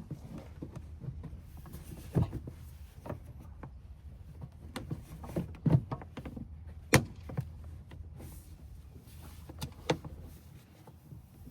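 Scattered clicks and knocks of the plastic air-filter housing and intake parts being fitted back onto the truck, over a low steady rumble that fades near the end.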